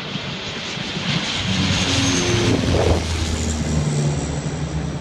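Firefighting airplane flying low past, its engines growing louder to a peak about three seconds in, then dropping in pitch and fading as it goes by.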